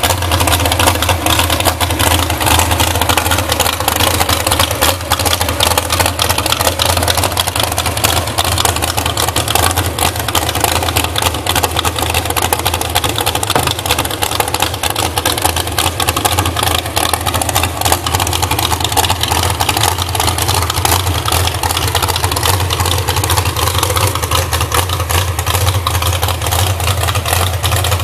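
Built 365 small-block V8 in a 1989 Dodge Power Ram mud truck, with 11.5:1 compression, a Comp Cams flat-tappet cam, open headers and an 870 Street Avenger carburetor, running steadily at idle.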